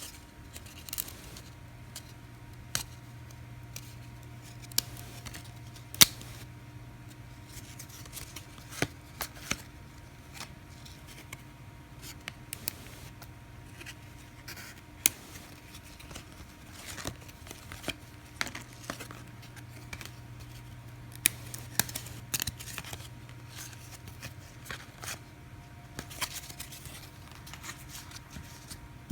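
Trading cards being handled and flipped through, snapping and sliding against one another in irregular sharp clicks, a few of them louder.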